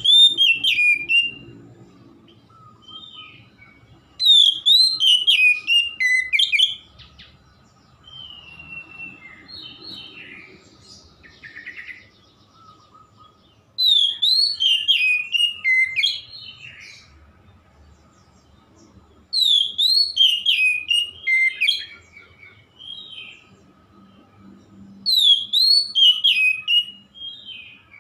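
Oriental magpie-robin (kacer) in full song: five loud bursts of rapid, sweeping whistled phrases, each a second or three long, with quieter chattering notes between them.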